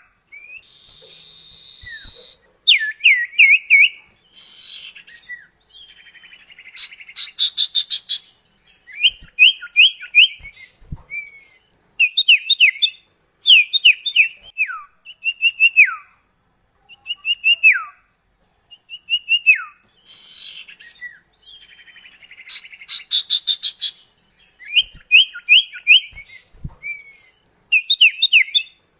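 Common iora (cipoh kacat) song: short clear downslurred whistles and quick runs of chirping notes, the same sequence coming round again about every 16 seconds.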